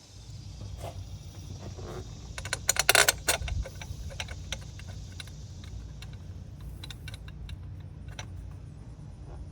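Metal parts and hand tools clinking and rattling as a water pump is fitted and its bolts are set, with a quick run of loud clinks about three seconds in and scattered light clicks after it.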